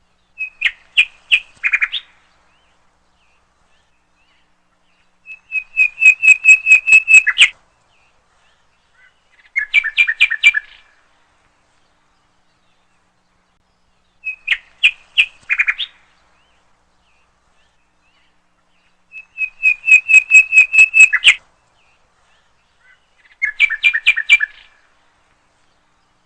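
Songbird chirping in phrases of rapid repeated notes, each phrase one to two seconds long with clean silence between. The same sequence of three phrases plays twice, a looped recording.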